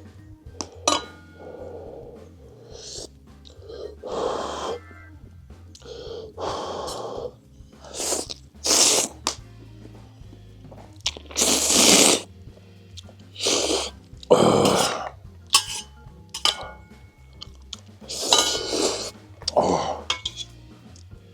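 Instant ramen noodles slurped with chopsticks: repeated loud sucking slurps, about ten of them, each under a second, with short pauses for chewing between. Faint background music runs underneath.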